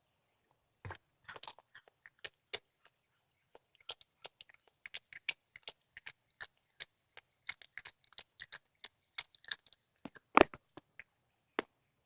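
Domestic cat chewing and crunching through a squirrel: irregular wet clicks and crunches of bone and flesh, with one louder crunch near the end.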